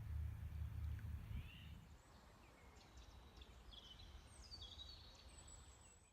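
Birds chirping and whistling in short, high calls, with a faint low rumble that dies away about two seconds in.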